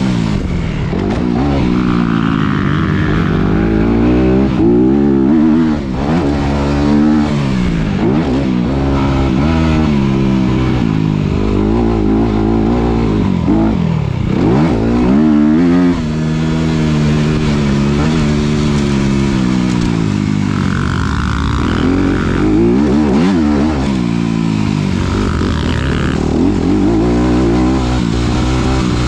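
2019 Honda CRF250RX's 250cc single-cylinder four-stroke engine revving up and down again and again as the bike is ridden hard, with the pitch climbing under throttle and dropping off many times over.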